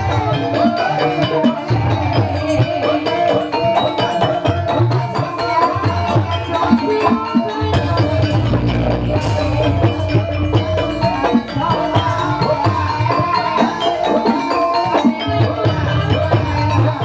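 Live gamelan-style accompaniment for an ebeg dance: fast interlocking struck mallet instruments with drum beats and low booming strokes underneath, playing on without a break.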